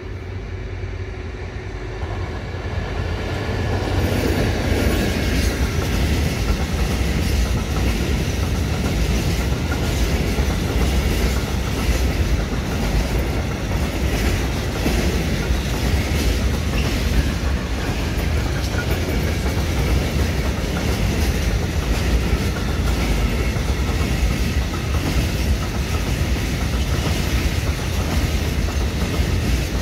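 Diesel-hauled freight train passing, headed by an EMD GT22HW-2 locomotive. It grows louder over the first four seconds, then the wagons roll by with a steady rumble and a continuous clickety-clack of wheels over rail joints.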